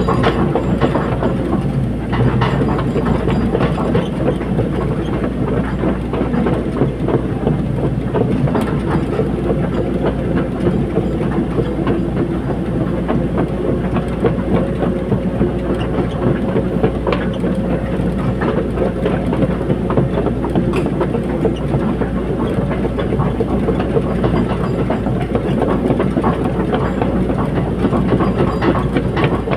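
Caterpillar 320D hydraulic excavator working: its diesel engine runs steadily under a continual metallic clatter and rattling.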